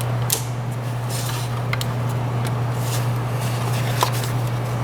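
A few light clicks and knocks from engine-bay parts being handled and reconnected, over a steady low hum.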